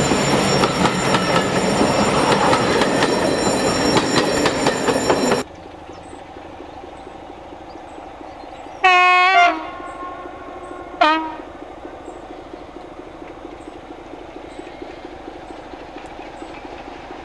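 Diesel locomotive running loud and close, cut off suddenly about five seconds in, followed over a low engine hum by two locomotive horn blasts: a first of about half a second, then a shorter one about two seconds later.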